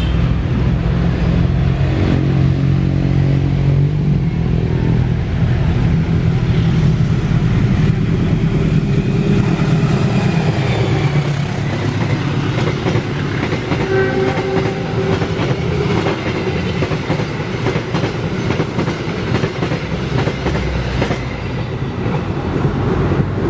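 A diesel locomotive passes close by, its engine running heavily, followed by a long train of passenger coaches whose wheels clatter rhythmically over the rail joints as they go by.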